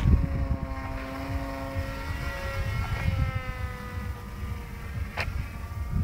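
Remote-control model airplane's motor and propeller droning in flight, its pitch drifting slowly up and down, over a low rumble. A brief sharp click about five seconds in.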